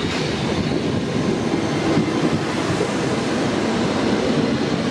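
Passenger train moving along the platform track, a steady rumble of wheels on rails with a faint high squeal over it.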